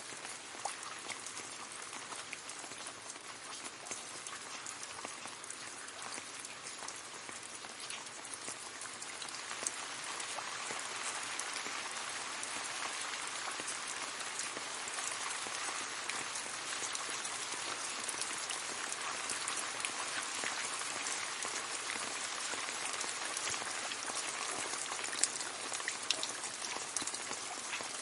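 Gentle rain falling on leaves: a steady, even patter with many small individual drop taps. It grows slightly louder about a third of the way in.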